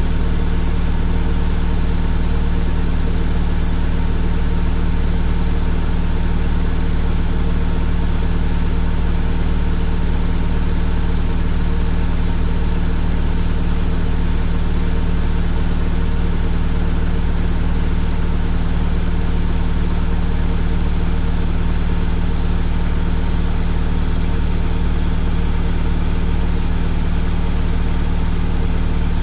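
Washing machine running: a steady low rumble and hum with a noisy wash over it and two faint, steady high-pitched whines on top.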